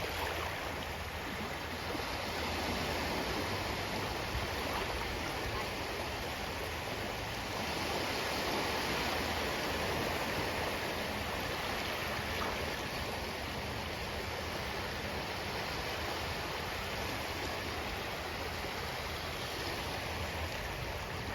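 Ocean waves washing on the shore in a steady rush of surf. The wash swells a couple of seconds in and again around the middle.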